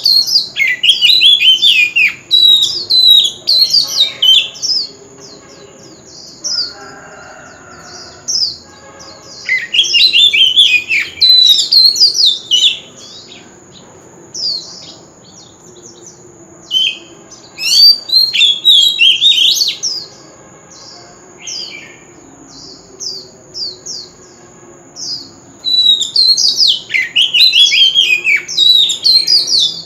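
Oriental magpie-robin singing its loud competition song: four bouts of rapid, varied whistles and trills, separated by short pauses.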